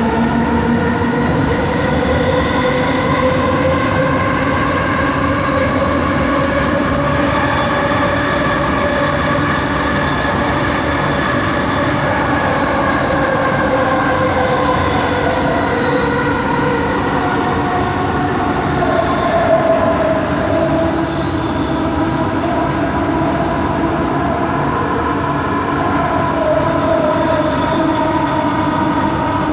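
Bombardier Innovia ART 200 metro train heard from inside the cabin while running between stations. Its linear induction motor drive gives a steady whine of several tones that drift slowly up and down over the running rumble, a motor noise the rider finds weird.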